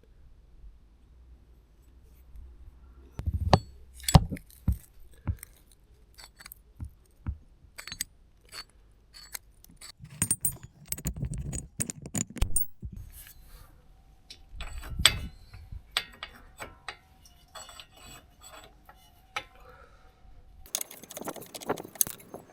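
Metal tools and parts clinking and knocking as they are handled: irregular sharp clicks and clanks that start a few seconds in and come in clusters, with a faint steady hum in the middle.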